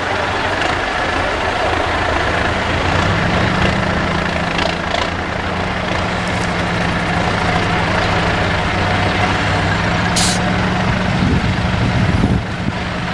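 IFA W50 4x4 truck's diesel engine running hard, its note climbing a little about three seconds in and then holding steady. A short hiss comes about ten seconds in.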